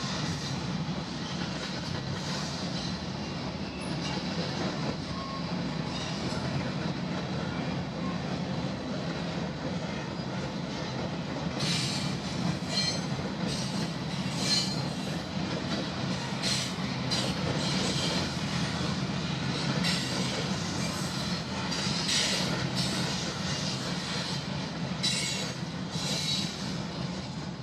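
Railcars rolling past with a steady low rumble. From about halfway through, short high-pitched wheel squeals come again and again.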